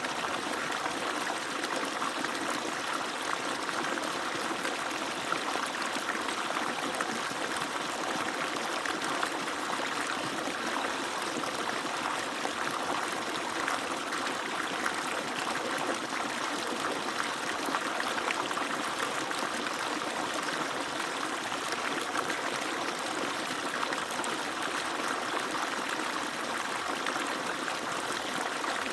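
Steady flow of water pouring and splashing from the outlet of an agricultural water pump, an even continuous rush with no breaks.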